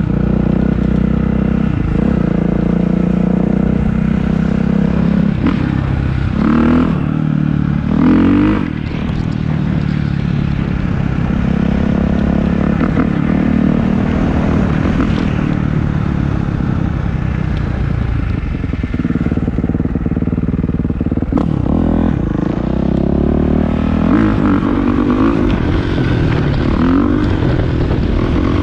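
Dirt bike engine running while being ridden, revs rising and falling, plausibly the 2019 Kawasaki KX450F's single-cylinder four-stroke through a Pro Circuit exhaust. The engine note climbs sharply a few times, notably about seven seconds in and again near the end.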